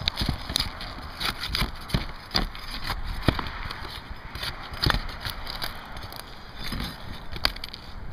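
Asphalt roof shingles being pried up and their nails pulled: a string of irregular knocks, clicks and scrapes at an uneven pace.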